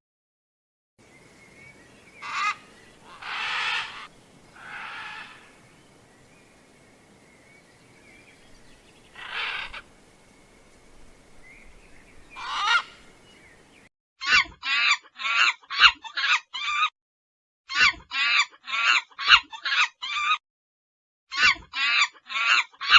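Poultry calling: first a few separate honking calls over a steady background hiss, then, after a cut about two-thirds through, chickens clucking rapidly in three quick bursts.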